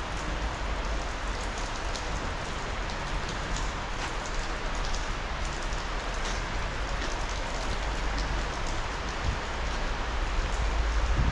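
Steady hiss of rain falling, with scattered faint drop ticks and a low rumble underneath.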